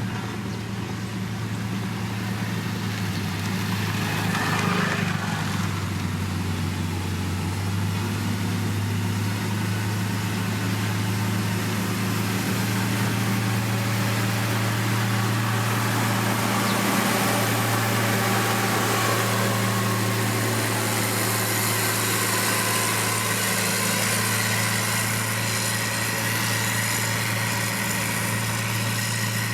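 Heavy diesel engine of road-construction machinery running steadily, a constant low engine hum.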